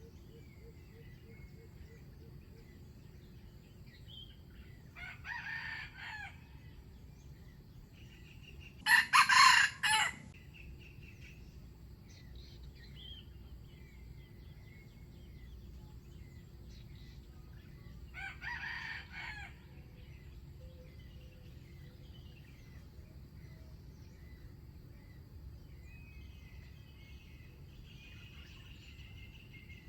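Wild junglefowl roosters crowing three times: a fainter crow about five seconds in, a loud close crow a few seconds later, and another fainter crow well after that. Faint small-bird chirps sound in between.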